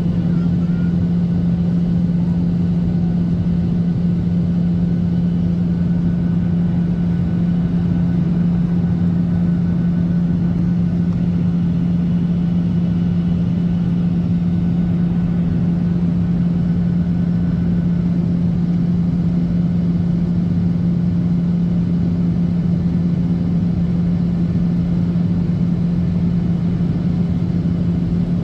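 Steady cabin noise of a Boeing 737-800 in flight: the rush of its CFM56-7B engines and airflow, with a constant low drone that does not change.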